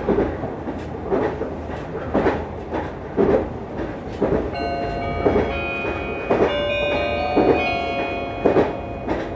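Meitetsu electric train running at speed, heard from on board, its wheels clicking over rail joints about once a second. About halfway through, a stretch of steady ringing tones at several pitches sounds over the running noise for around four seconds.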